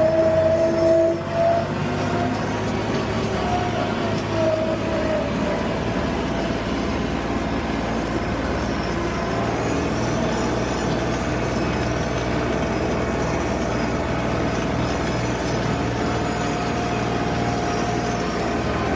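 Tractor engine running at a steady speed, with a constant hum and a held whine above it that wavers in pitch a little in the first few seconds.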